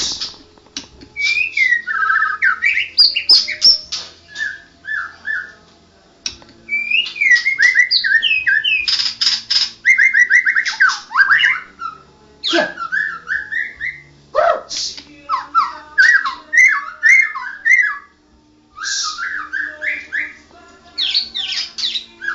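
White-rumped shama (murai batu) singing a varied song of quick whistled phrases, pitch glides and rapid trills, broken by two short pauses.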